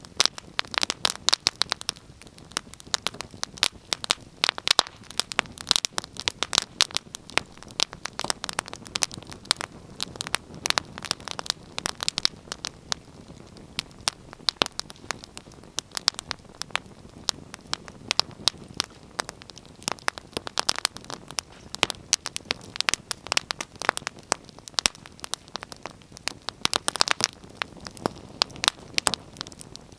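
Wood fire crackling, with irregular sharp pops and snaps over a low hiss.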